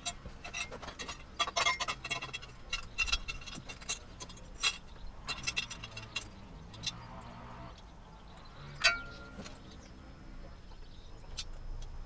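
Small metallic clicks and clinks of exhaust nuts being handled and threaded onto the cylinder-head studs while a header pipe is fitted, dense at first and then sparse, with one sharper clink and a short ring about nine seconds in.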